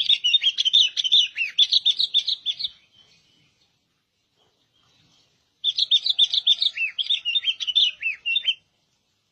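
Albino sooty-headed bulbul (kutilang) singing: two runs of quick chirping notes, each about three seconds long, with a pause of nearly three seconds between them.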